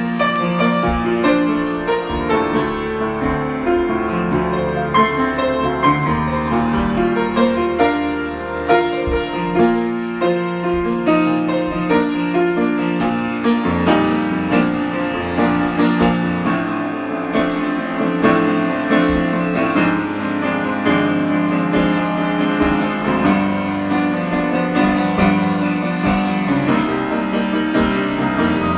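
Solo piano improvisation: a continuous flow of sustained notes and chords, played without pause.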